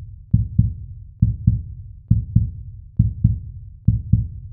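A heartbeat-style suspense sound effect: low double thumps, one pair a little under every second, held steady as a drum-like pulse.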